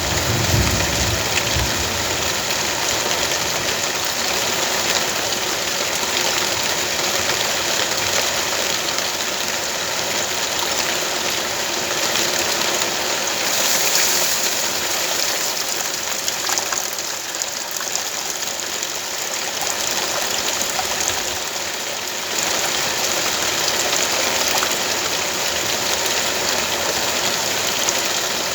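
Steady rain, a dense even hiss, with a brief low rumble in the first second or two.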